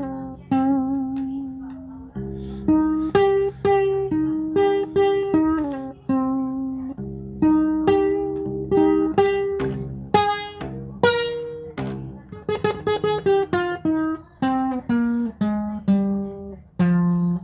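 Guitar playing a slow melody of plucked single notes over lower ringing bass notes. About twelve seconds in comes a quick run of notes, followed by a descending line.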